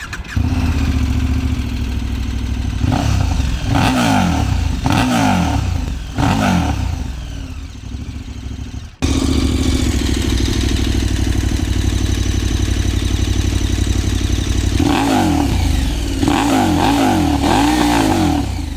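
KTM 1290 Super Adventure S V-twin idling through its stock exhaust with the dB killer and last baffle removed, loud, with repeated short throttle blips: a run of four in the first half and several more near the end.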